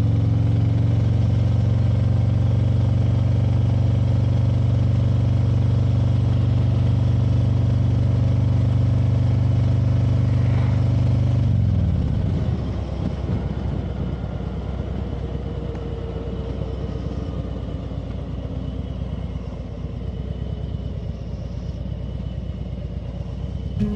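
Motorcycle engine running at a steady cruise. Just before halfway its note falls away as the bike slows, and it runs on at low revs, quieter and rougher.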